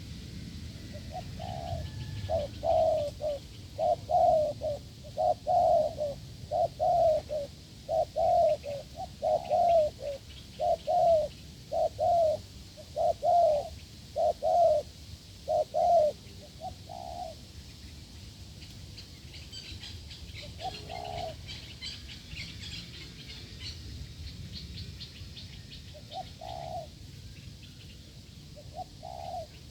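Dove cooing: a steady run of short, loud coos, a little more than one a second, for about sixteen seconds. After that only a few single coos come, several seconds apart. Faint high chirping of small birds runs through the middle of the quieter part.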